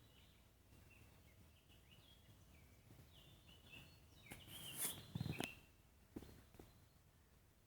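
Faint wild birdsong: short chirps and twitters scattered through. A little over four seconds in there is a louder, brief rustling thump, followed by two small knocks.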